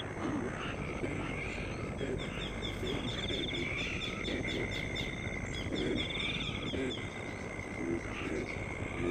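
Outdoor chorus of insects and frogs: rapid pulsed insect trills repeating over a steady high drone, with short low croaks scattered underneath.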